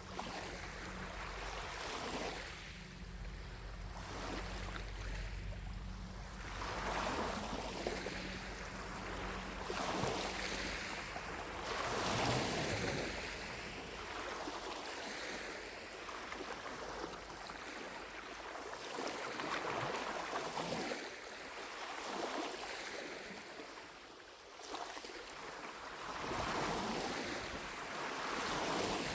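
Small lake waves lapping against the shore, each wash swelling and fading every couple of seconds. A low steady rumble sits underneath for the first dozen seconds.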